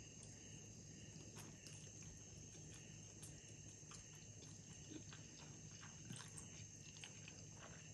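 Faint eating sounds of a person slurping and chewing instant noodles eaten with chopsticks: scattered small smacks and clicks of the mouth over a steady low room hum.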